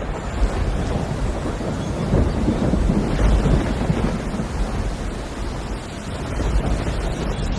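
Heavy rain with deep rumbling thunder: a steady loud rush of noise over a continuous low rumble.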